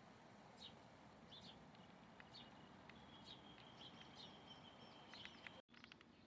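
Faint wild bird calls: short high chirps repeating about every half second, joined in the second half by a thin, steady high note held for a couple of seconds. The sound drops out abruptly for an instant near the end.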